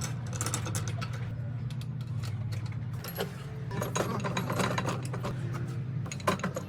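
Hand tools clicking and clanking against metal, irregular and repeated, over a steady low hum.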